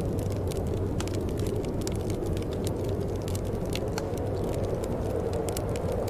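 Wood fire crackling in a fireplace, with frequent small sharp pops over a steady low rumble.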